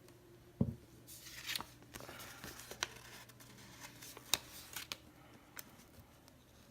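Sticker sheets and paper being handled at a desk: a low thump about half a second in, then light crinkly rustling with a few sharp clicks for about four seconds.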